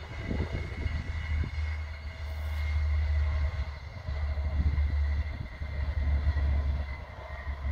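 A distant Arriva regional train running across open country: a faint steady hum and whine from the train. This is heard under a heavy, gusty low rumble of wind buffeting the microphone.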